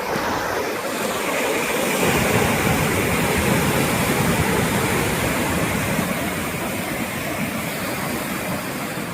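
Ocean surf: a steady rushing wash of waves that grows fuller about two seconds in.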